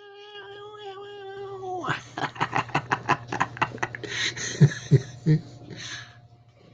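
A domestic cat's long, level yowl lasting about two seconds, followed by a rapid run of short pulsed sounds, about five a second. Near the end come three low thumps and a couple of breathy hiss-like bursts.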